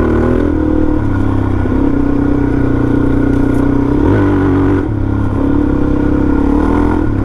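Suzuki DRZ400's single-cylinder four-stroke engine running under way on a trail ride, its pitch stepping up and down several times as the throttle and gears change.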